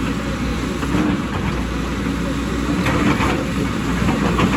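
Excavator engine running steadily at work, a constant low mechanical drone.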